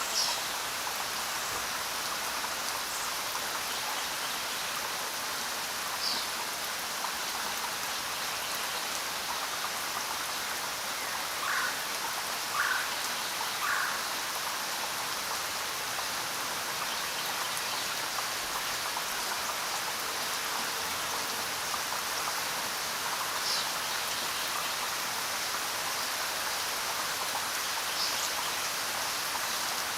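Steady rain falling, an even hiss, with a few brief, sharper sounds scattered through it, three of them close together around the middle.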